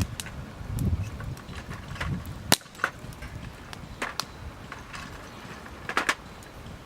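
Wood campfire crackling, with sharp pops scattered irregularly, the loudest about two and a half seconds in and a quick cluster near the end, over a low gusty rumble in the first second.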